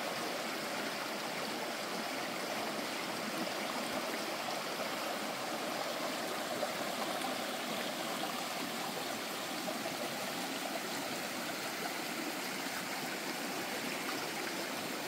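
Mountain stream in a gorge, rushing steadily with a small waterfall. The sound cuts in and out abruptly.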